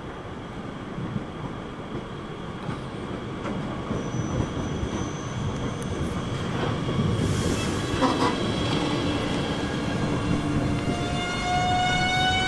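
A train running through the station: rail and wheel noise that grows louder, and near the end a set of high whines rising steadily in pitch.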